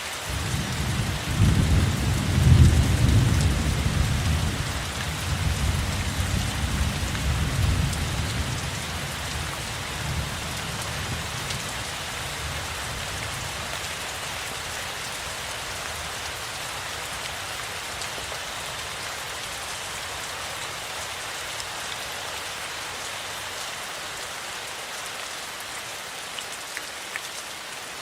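Steady rain falling, with a low rumble of thunder that begins about a second in, is loudest a couple of seconds later and fades away over the next several seconds.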